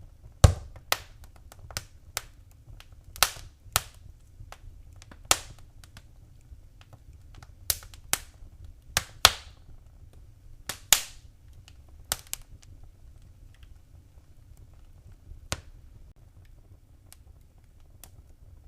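Wood fire crackling: irregular sharp pops and snaps over a faint low rumble. The pops are bunched in the first two thirds and thin out to a single pop near the end.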